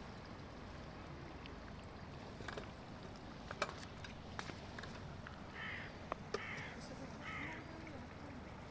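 Three short, harsh bird calls about a second apart, over a steady low rumble, with a few sharp clicks and knocks just before them.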